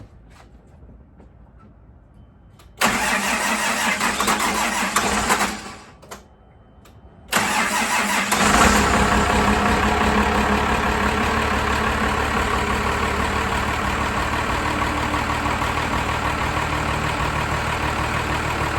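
Cummins 12-valve 6BT diesel cold-starting: the starter cranks for a few seconds and stops, then cranks again, and the engine fires after about a second and settles into a steady idle.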